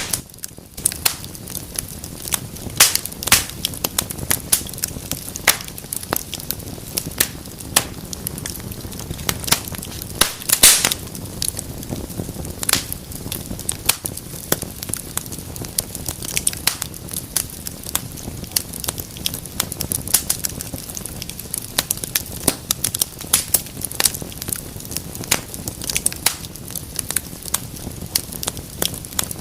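Fire crackling in a fireplace: a steady stream of sharp pops and snaps over a low, even rustle of flames, with one louder pop about ten seconds in.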